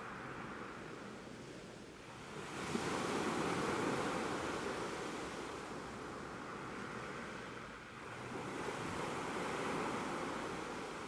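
Ocean waves breaking and washing in. Two swells of surf rise and fade, the first about two seconds in and the second about eight seconds in.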